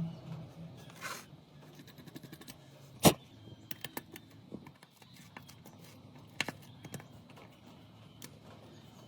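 Scattered small clicks and taps of tools and parts being handled during a phone repair, with one sharp click about three seconds in and another near six and a half seconds.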